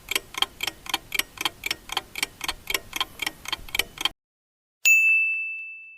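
Clock-ticking countdown effect, about four ticks a second, that stops about four seconds in; a moment later a single bright ding rings out and fades, marking time up.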